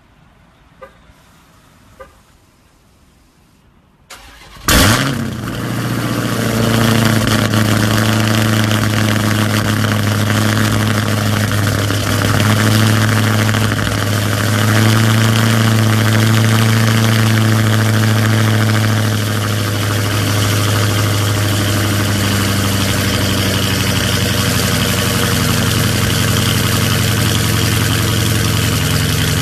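Two faint clicks, then about four seconds in a Dodge Charger SRT's Hemi V8 is cranked and catches with a loud flare of revs, then settles into a steady idle.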